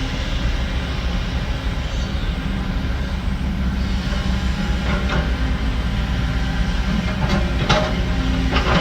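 Heavy diesel construction machinery running steadily under load, with a few sharp metal clanks about halfway through and several more near the end.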